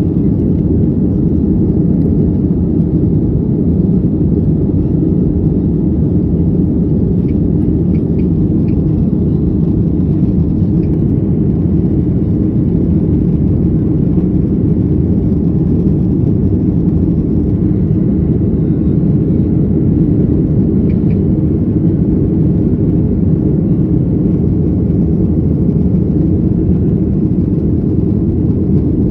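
Boeing 737-800 cabin noise: the steady low rumble of the CFM56 engines and rushing air, heard from a window seat inside the cabin.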